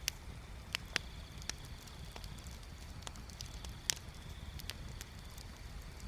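Bonfire crackling: sharp, irregular pops and snaps of burning wood, the loudest about a second in and just before four seconds in, over a low steady rumble.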